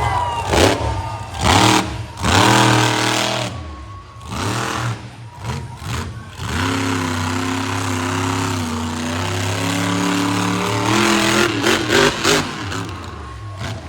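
Monster truck engine revving in a series of short, sharp bursts, then running at a steady pitch for several seconds before a few more quick revs near the end.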